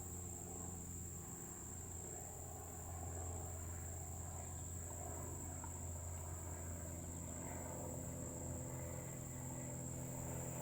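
Crickets trilling steadily as one continuous high-pitched drone, over a low steady hum.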